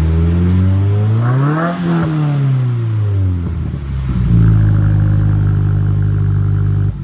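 2015 Subaru WRX's turbocharged flat-four through a Nameless Performance cat-back exhaust with 5-inch mufflers and a resonated midpipe, revved up once and let fall back. It is then held at a steady raised rpm for a few seconds and drops back near the end.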